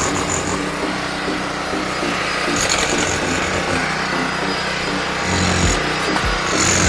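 Small engine-driven machinery running steadily at an excavation beside a house foundation, getting a little louder near the end.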